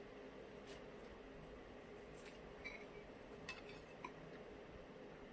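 Faint eating sounds: quiet chewing with a few soft, short clicks and smacks scattered through, over a low room hum.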